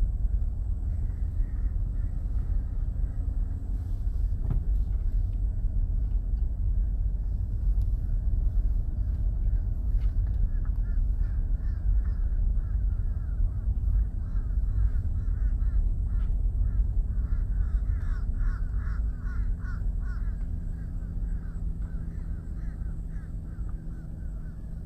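A car creeping along at walking pace, its engine and tyres rumbling steadily, heard from inside the cabin. Birds call in the background, most busily in the second half.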